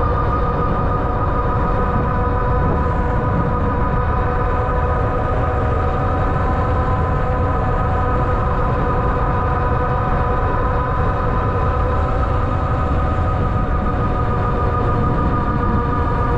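Ariel Rider Grizzly e-bike riding at a steady speed: a steady motor whine of several even tones over a loud, constant low rumble of wind and road noise.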